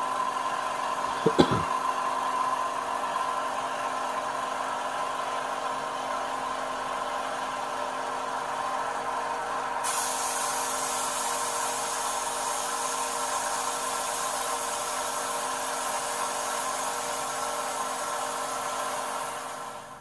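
Recorded aircraft engine sound effect played through a small Bluetooth speaker on a model plane, running steadily with several steady tones. A short click comes about a second and a half in, a hissy rush joins about halfway through, and the sound cuts off suddenly at the end.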